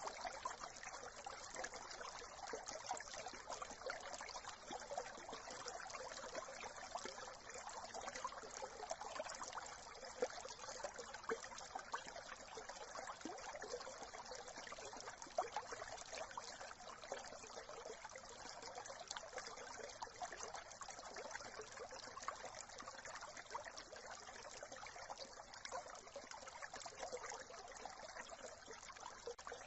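Small brook trickling and babbling over stones, a steady, even flow of water.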